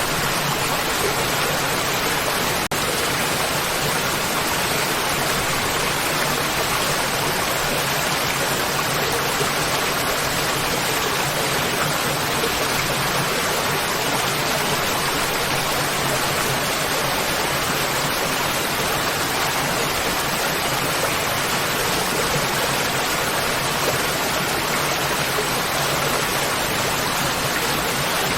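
Waterfall: water pouring and splashing in a steady, even rush that spreads across low and high pitches alike.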